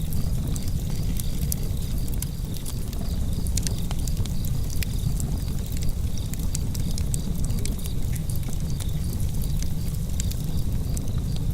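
Wood fire burning in a fireplace: a steady low rumble of flame with frequent small crackles and pops.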